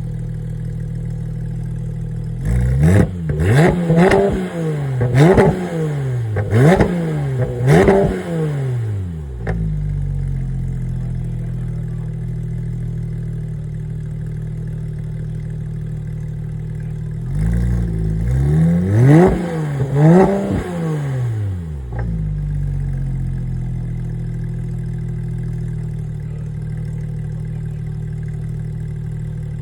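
Car engine idling steadily and revved in two sets of quick throttle blips: about five sharp revs a few seconds in, then three or four more past the middle, each rising and falling back to idle.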